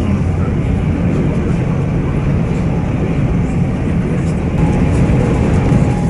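Steady low rumble of a train in motion, with a faint steady whine joining about four and a half seconds in.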